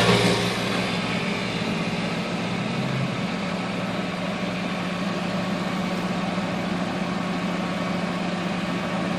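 Car engine just started, settling within about half a second from a brief flare into a steady idle.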